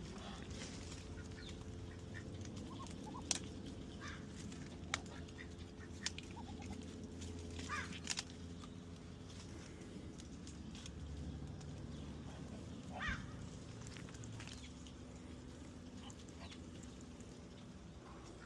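Domestic poultry making a few short, scattered calls over a steady low hum, with several sharp clicks.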